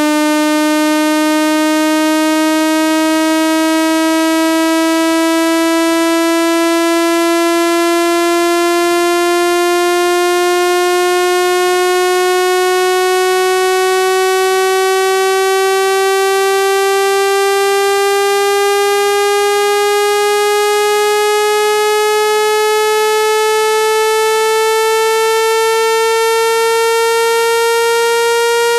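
Synthesized buzzy tone, rich in overtones, held at a constant loud level while its pitch glides slowly and steadily upward: a speaker water-ejection sweep, meant to vibrate water out of a phone speaker.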